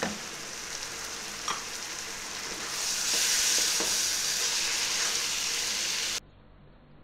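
Chicken curry sizzling in a nonstick wok while a spatula stirs it, with a couple of light spatula knocks against the pan. The sizzle grows louder about three seconds in, then cuts off abruptly near the end.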